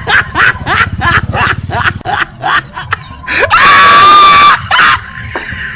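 A run of short, sharp yelping cries that fall in pitch, then a long shrill scream about three and a half seconds in that lasts about a second.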